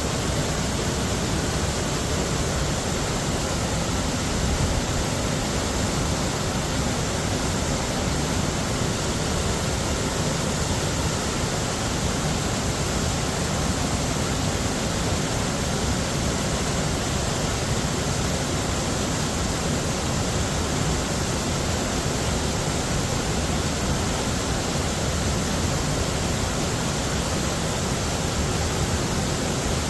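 Heavy waterfall, water falling in a steady, unchanging rush.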